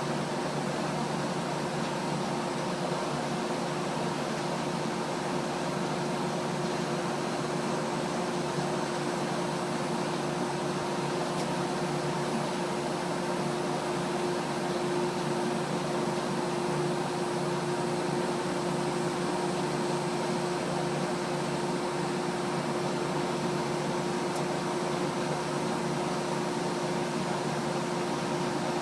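1977 Payne central air conditioner running steadily: a constant rush of moving air with a steady hum under it.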